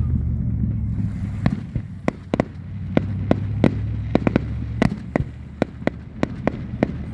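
Fireworks display heard from across the water: aerial shells bursting in a quick, irregular string of about twenty sharp bangs and pops, starting about a second and a half in, over a steady low rumble.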